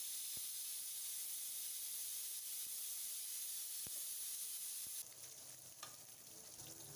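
Small onions, garlic and whole spices sizzling in hot oil in an aluminium kadai, a steady hiss with a few faint pops that drops off about five seconds in.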